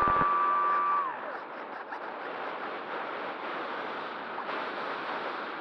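An RC flying wing's motor whines at a steady pitch, then drops in pitch and cuts out about a second in. Steady rushing air noise follows.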